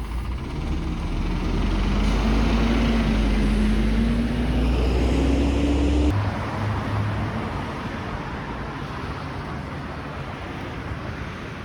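Road traffic: a passing vehicle's engine rises slowly in pitch, then the sound changes abruptly about six seconds in to a quieter, steady traffic hiss.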